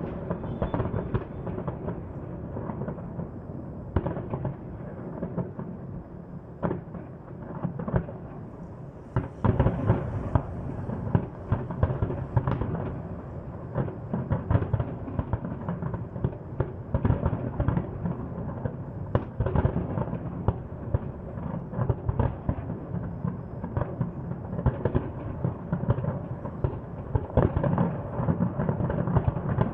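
Fireworks display: a rapid, near-continuous run of bangs and booms with rumbling echoes, getting denser and louder about nine seconds in.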